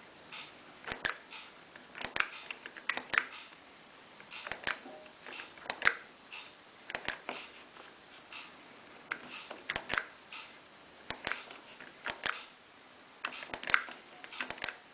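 Sharp plastic clicks from the controls of a Miele PW6055 Plus washing machine as settings are stepped through, irregular, about one or two a second and often in pairs.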